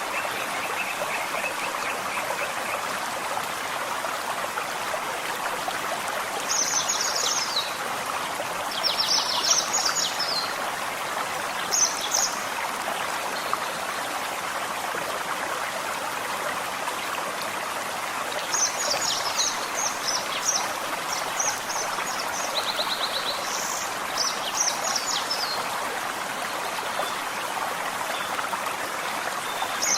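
Small forest stream babbling steadily over stones, with songbirds singing short, high phrases several times over the water, most around the middle and in the last third.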